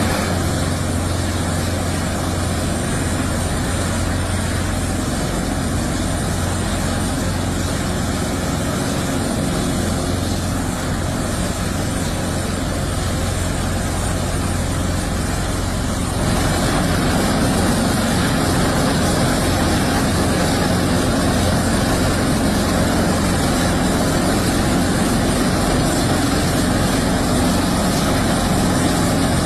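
Helicopter running steadily: the dense noise of its rotor and turbine engines, a little louder after about sixteen seconds.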